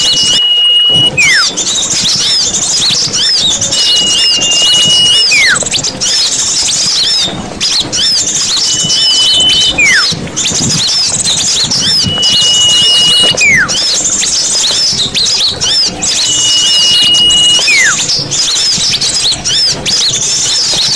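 Small-bird lure recording: a dense flock of small songbirds chattering and chirping. Cutting through it about every four seconds is a call made of a short held whistle, then a whistle sliding steeply down in pitch.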